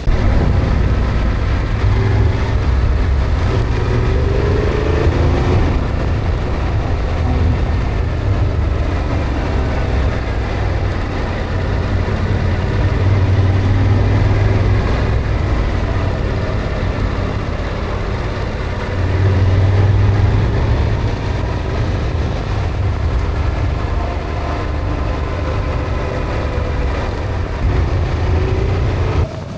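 Yamaha Ténéré adventure motorcycle engine running while riding, its note rising and falling a little with the throttle.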